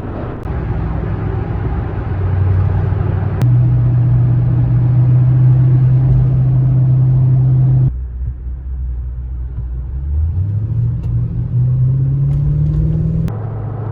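Vehicle engine drone with road noise while driving. The pitch holds steady, then climbs for a few seconds near the end as the vehicle accelerates, with sudden changes in between.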